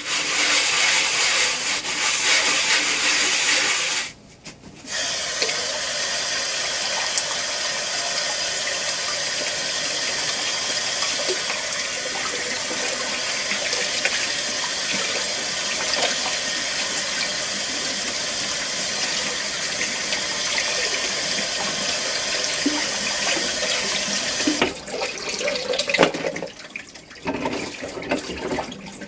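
Running water, steady and loud, with a short break about four seconds in. Near the end the flow turns uneven, with clicks and knocks mixed in.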